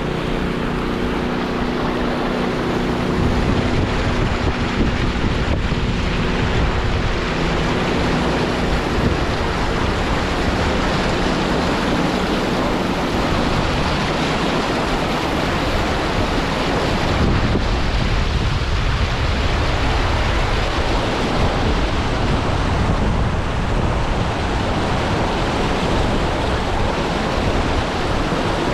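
Steady, loud rushing noise of wind buffeting the microphone. A low engine hum fades out in the first few seconds.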